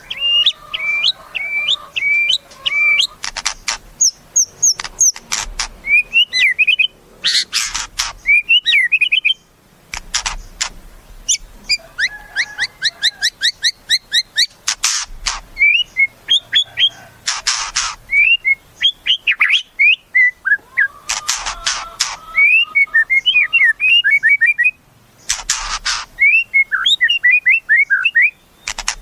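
White-rumped shama (murai batu) singing continuously: quick, varied whistled phrases and rapid chattering notes, broken several times by loud harsh, rattling bursts about a second long.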